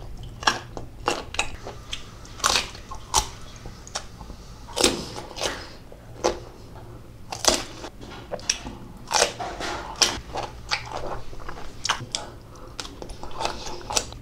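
Close-miked crunching and chewing of crisp food: a person taking bites and chewing, with sharp irregular crunches about one or two a second.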